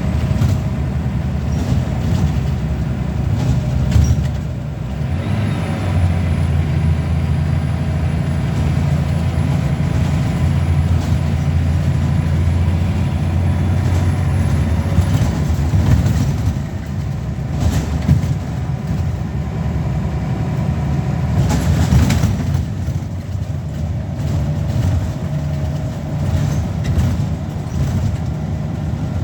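Scania L94UB single-deck bus heard from on board, its diesel engine pulling under load with a thin high whine for several seconds, then easing off about halfway through. Brief knocks and rattles come through the body, and there is a short hiss near the end.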